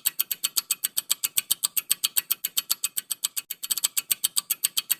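Fast, even ticking of a quiz countdown-timer sound effect, about eight sharp ticks a second, running through the pause left for the answer.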